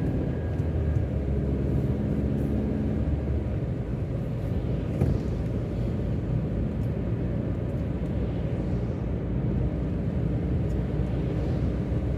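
Car driving along a road: a steady low rumble of engine and tyres, with a light knock about five seconds in.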